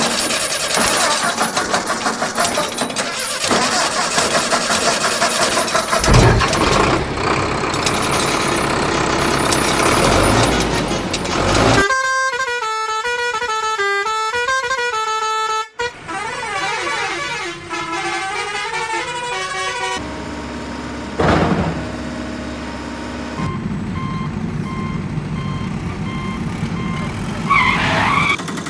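Vehicle sound effects: engines running and horns honking, with a few seconds of a pitched, stepping tune near the middle.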